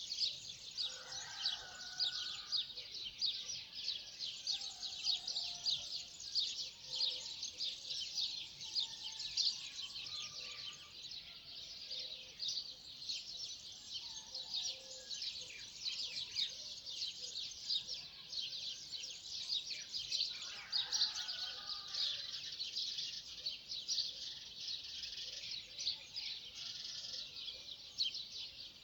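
Many small birds chirping and twittering at once in a continuous chorus, with a few lower calls now and then.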